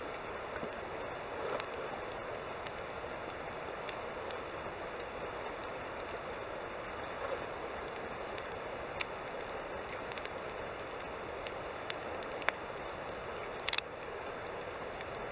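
Wood campfire burning: a steady hiss with scattered sharp crackles and pops, the loudest near the end.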